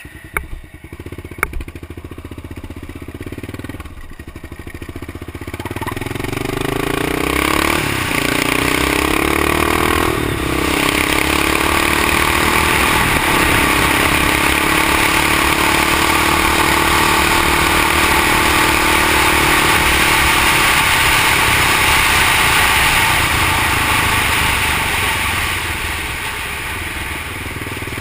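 Honda XR650L single-cylinder four-stroke engine of a street-legal three-wheeler, pulling away and accelerating up through the gears in the first dozen seconds, then running steadily at cruising speed with wind and road noise, easing off near the end.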